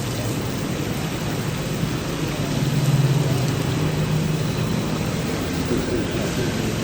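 Steady sizzling of chicken frying in hot oil, with a faint low hum underneath.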